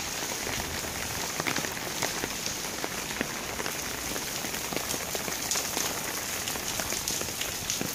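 Heavy downpour: a steady rain hiss with many sharp drop splats and ticks scattered through it.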